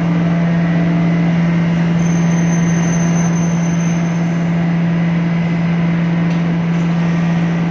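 Glass tempering furnace line running: a loud, steady machine hum under an even rush of air, with a faint high whine for about two seconds in the middle.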